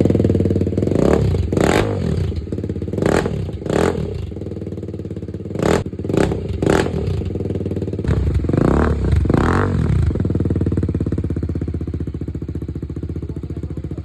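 BMW G310RR's single-cylinder engine revved through its exhaust in about nine quick throttle blips, each rising and falling in pitch. It then settles to a steady idle for the last few seconds.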